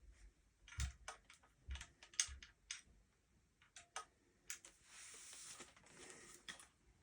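Light clicks and taps of hard parts being handled, irregular and a fraction of a second apart, then about two seconds of soft rustling followed by one more click.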